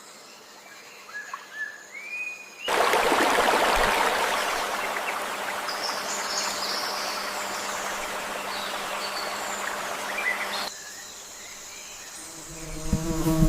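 Rainforest ambience: steady high insect buzzing with a few short rising bird chirps. About three seconds in, a loud steady rushing noise of water cuts in abruptly and runs for about eight seconds, then cuts off just as suddenly, leaving the insects. Near the end a low hum with overtones begins.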